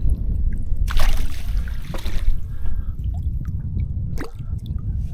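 Water dripping and splashing as a freshly landed trout is handled in the water, with a louder splash about a second in. A steady low rumble sits underneath.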